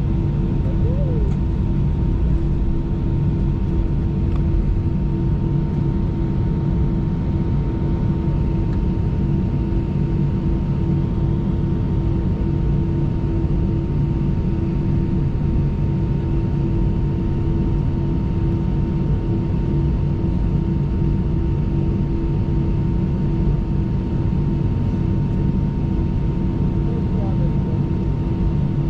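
Steady cabin drone inside an Airbus A319 on the ground after landing: a constant low rumble with two steady hums from the jet engines and air system.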